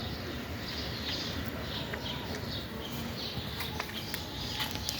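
Birds chirping in short calls repeated about twice a second, over a steady low background noise, with a few sharp clicks.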